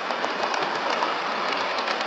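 Model train running along the layout track: a steady rush of wheel and motor noise with faint, irregular clicks.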